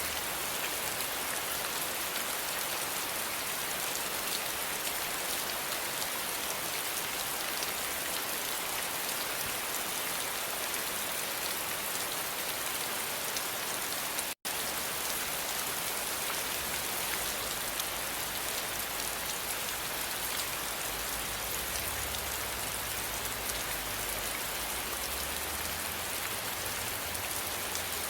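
Steady rain falling, a dense even hiss of many fine drops. The sound cuts out for an instant about halfway through.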